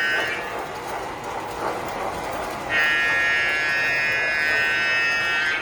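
Tinplate toy train sounding its electronic horn: a blast ending just after the start, then the rattle of the train running on the track, then a second long blast of nearly three seconds starting past the middle.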